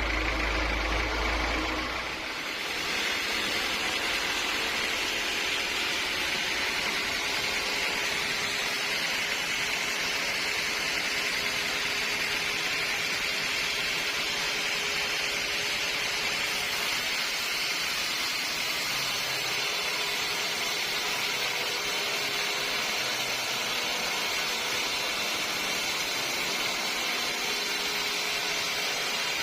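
Sawmill machinery running: a steady, even, fairly high-pitched mechanical noise. A lower hum stops about two seconds in.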